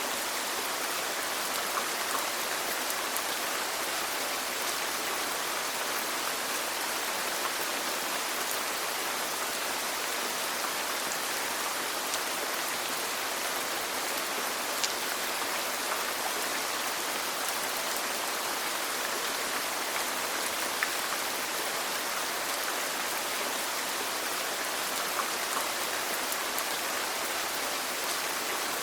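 Steady rain falling in an even, continuous hiss, with a couple of sharper single drop ticks.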